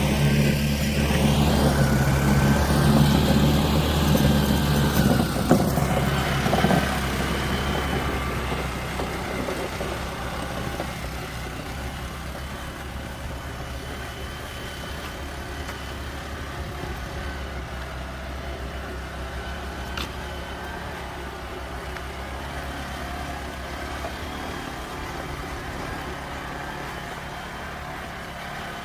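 Excavator engine running, loud for about the first six seconds, then dropping to a steady, quieter run. A single sharp click comes about twenty seconds in.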